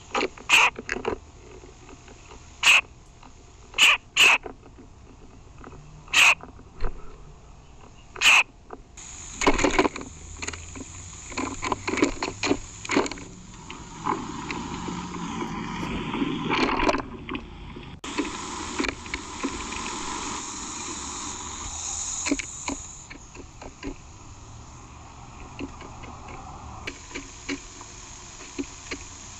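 Birds at a bird feeder, recorded close to the feeder: a handful of loud, sharp knocks at irregular intervals in the first eight seconds or so, then scuffling and rustling.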